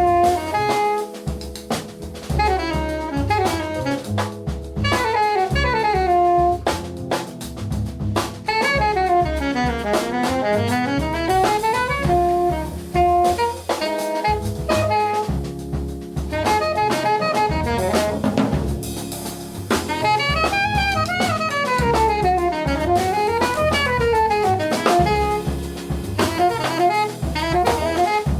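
Jazz quartet playing, led by an alto saxophone in fast runs that sweep up and down again and again, over double bass and a drum kit.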